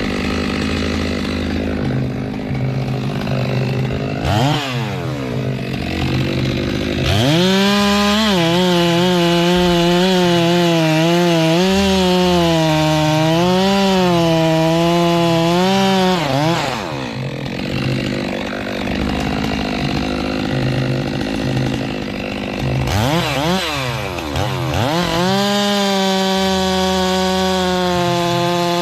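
Stihl gasoline chainsaw idling, revved briefly, then held at full throttle for about nine seconds while its pitch dips and recovers as it cuts into wood. It drops back to idle, blips once, and goes to full throttle again near the end.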